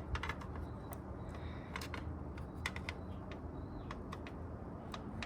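Scattered light clicks and taps of hands and tools working the carburetors into the rubber intake boots, irregular and a few per second, over a low steady hum.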